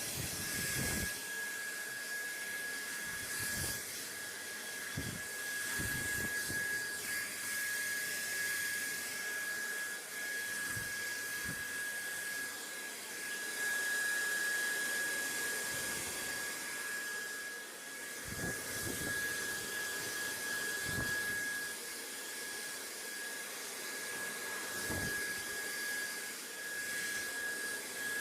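Steady white noise: an even rushing hiss with a constant high whine running through it, and soft low bumps now and then.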